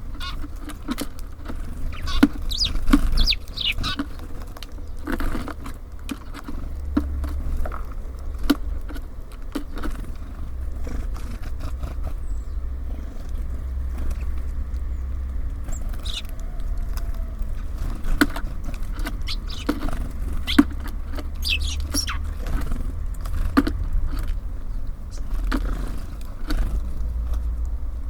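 Small birds at a feeder: frequent light taps and clicks as they peck and land, with a few short high calls about two to four seconds in and again past the middle. A steady low rumble lies underneath.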